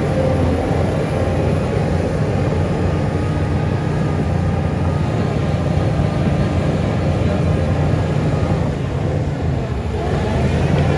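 Heavy diesel engine of earthmoving machinery running steadily, easing off briefly about nine seconds in and then rising again.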